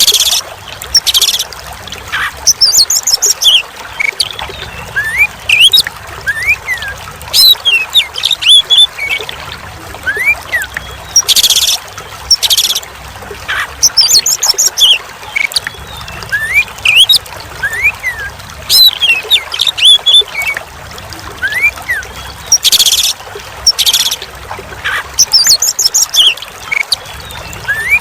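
Oriental magpie-robin (kacer) singing a stream of short rising and falling whistles and chattering notes, broken every ten seconds or so by loud harsh notes, over the steady sound of trickling water.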